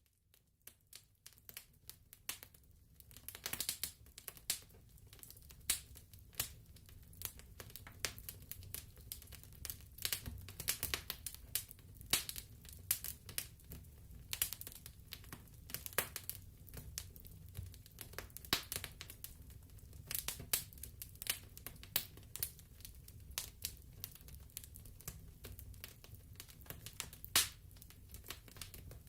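Wood fire in a fireplace crackling, with irregular sharp pops, a few louder ones, over the low steady rumble of the flames.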